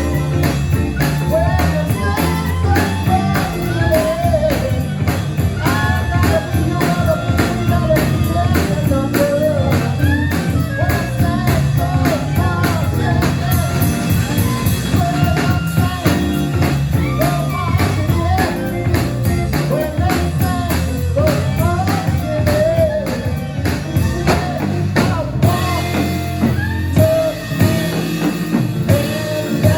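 A live New Orleans-style band playing: a drum kit and bass under a winding melodic lead line. The drums thin out about 25 seconds in.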